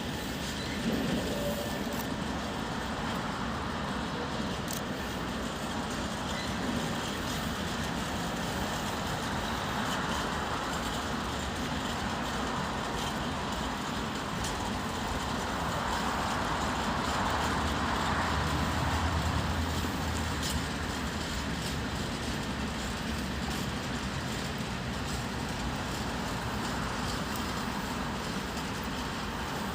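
EU07 electric locomotive and its train of tank wagons rolling in as it pulls up to a signal: a steady rumble of wheels and wagons, with a low hum swelling a little past the middle.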